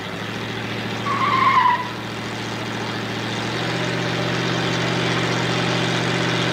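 Drag-race car and truck engines running at the starting line, a steady drone that steps up louder and fuller about three and a half seconds in. A short high squeal comes about a second in.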